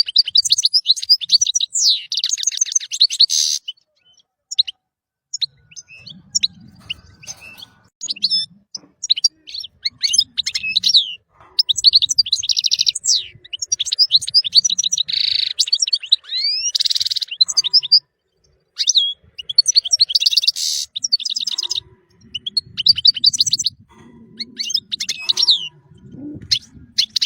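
European goldfinch singing: a fast twittering song of rapid chirps and trills, delivered in phrases broken by brief pauses.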